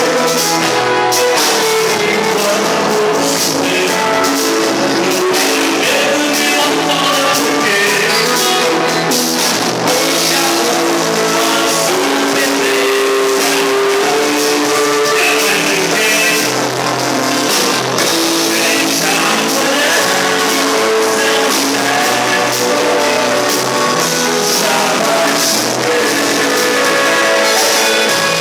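Live rock band playing: electric guitar and drum kit, with a singing voice.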